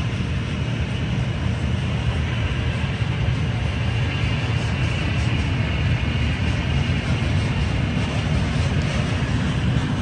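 A train passing: a steady, even rumble with no breaks.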